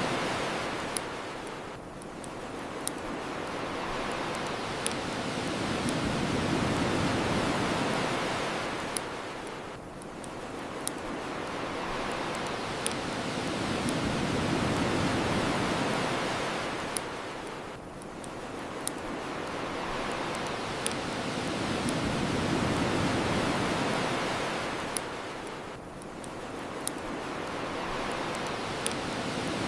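Ocean waves washing onto a shore in slow swells, one about every eight seconds, with sharp pops of a crackling wood fire about every second or two over the top.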